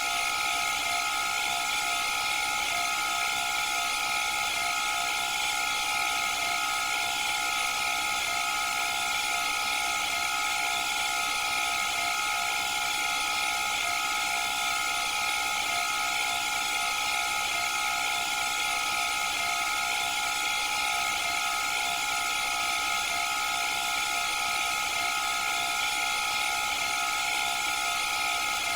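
Candy washing machine spinning, its motor and drum giving a steady high whine over a hiss.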